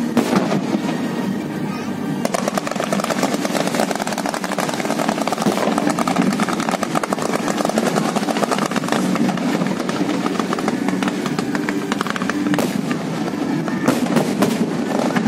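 Fireworks set off low over the water, a dense, continuous crackle of many small pops that thickens about two seconds in, with a few sharper cracks near the end.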